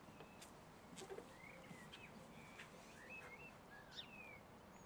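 Near silence with faint bird chirps: a few short whistled calls that rise and fall, scattered through, and one or two faint ticks.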